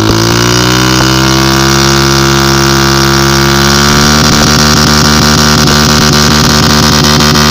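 Motorcycle engine running while being ridden off-road. Its note eases slightly in the first second, then holds steady, with a quick pulsing texture from about four seconds in.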